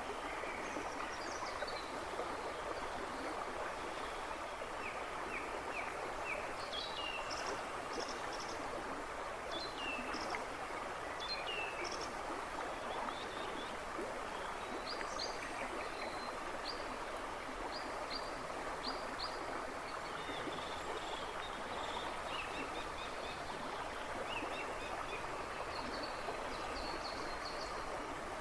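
A river babbling and rushing steadily over stones, with several woodland birds singing in the background in short chirps and trills.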